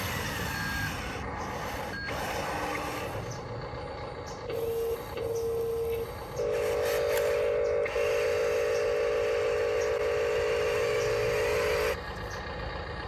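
Huina RC wheel loader toy running, with its electronic sound effects over the noise of its electric drive: two short beeps about four and a half seconds in, then a long warbling electronic tone held for about five and a half seconds with a brief break, cutting off suddenly near the end.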